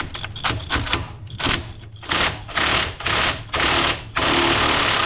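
Power wrench on a 15 mm socket, run in short bursts that grow longer, the last about a second long, as a nut is spun loose, with a few clicks before the first burst.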